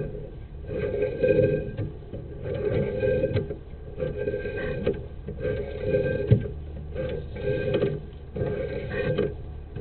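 Rhythmic mechanical rasping, one stroke about every one and a half seconds.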